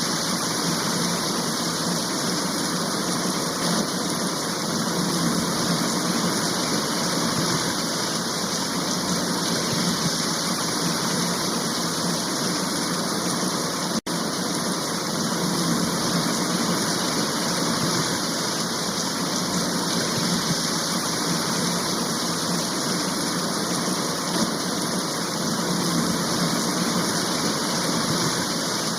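Steady rushing of water, an even, unbroken wash of noise of floodwater or heavy rain, briefly cut off about halfway through.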